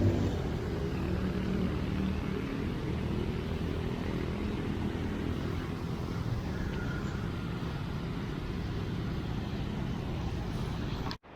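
Steady road traffic noise, a low rumble of cars and other vehicles passing on a city street. It cuts off abruptly near the end.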